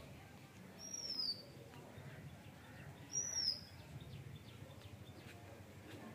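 A bird calling twice, about two seconds apart: each call is a short, high note that falls in pitch, over faint outdoor background noise.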